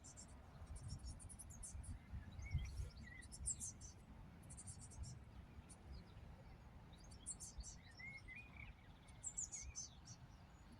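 Small birds singing: repeated short bursts of high, fast chirping trills, with a lower warbling phrase about two seconds in and again around eight seconds in, over a faint low rumble.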